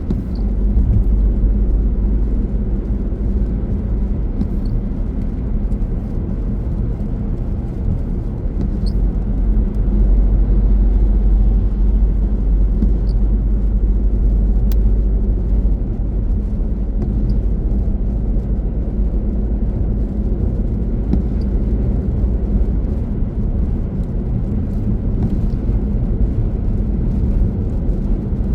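Car driving, with a steady low rumble of road and engine noise and a few faint scattered ticks.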